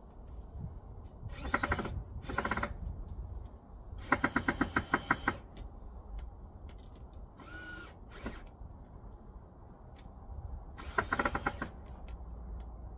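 Power drill running in about five short bursts, driving screws, the longest run about four seconds in and lasting over a second.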